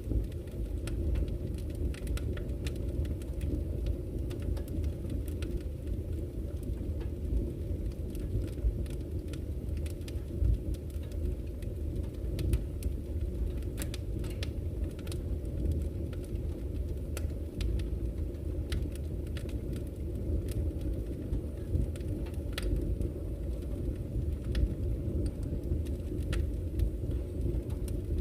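Campfire crackling, with irregular sharp pops and snaps, over the steady low rush of a flowing river.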